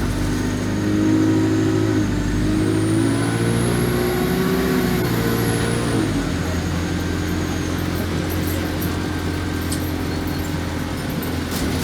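Alexander Dennis Enviro200 bus engine pulling under load, its note climbing in steps, then dropping about six seconds in to a lower, steady note as it eases off or changes gear. A faint high whine rises and falls over it.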